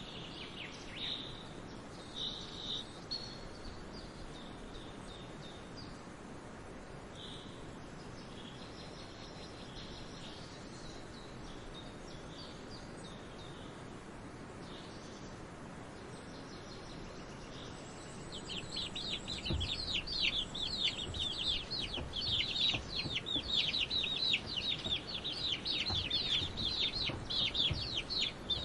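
Scattered high bird chirps, then about two-thirds of the way in a dense stream of rapid, high, falling peeps from chicks starts and keeps going.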